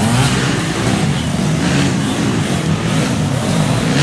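Off-road trail motorcycle engine revving up and down as the bike is ridden hard, its pitch rising and falling with the throttle.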